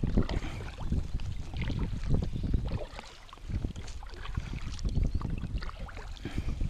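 Water slapping and sloshing against a fishing kayak's hull, with wind gusting on the microphone as an uneven low rumble that eases for a moment about halfway through.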